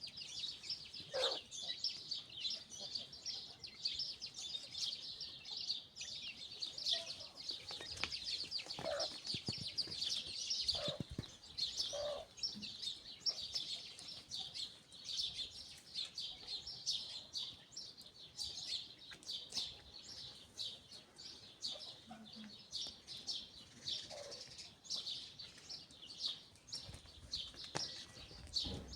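Many small birds chirping continuously in a dense chorus of quick, high notes, with a few separate lower calls now and then.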